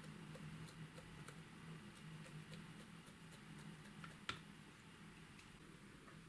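Faint scattered light clicks over a low steady hum, with one sharper click about four seconds in.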